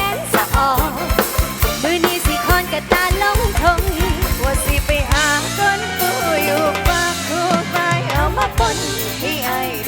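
Live band music: a drum kit keeps a steady beat under a melody of bending notes, with a quick run of drum hits about three and a half seconds in.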